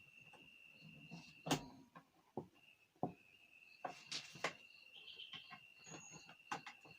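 Scattered sharp clicks and knocks of an electric kettle and its parts being handled. A cricket's steady high trill runs behind them and breaks off for about a second and a half near the middle.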